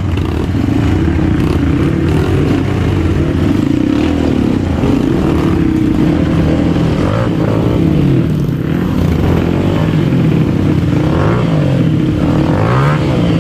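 Trail motorcycle engine running hard, revved up and down several times as the bike is worked forward, with rises in pitch near the middle and near the end.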